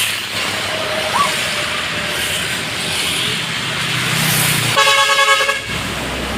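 A truck horn sounds once about five seconds in, a single blast of under a second, over the steady rumble of road traffic.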